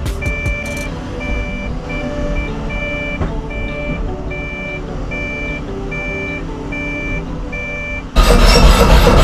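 Doosan 255 excavator's warning beeper sounding a steady high beep about one and a half times a second over the low, steady running of its engine. Near the end a sudden, much louder harsh mechanical rattling takes over.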